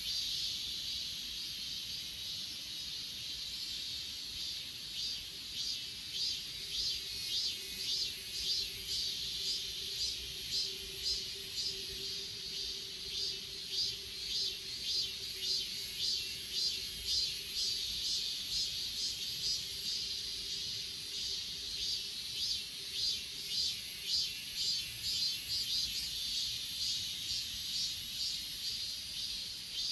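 A chorus of grass insects such as crickets: a steady high-pitched trill with a second trill pulsing about once a second.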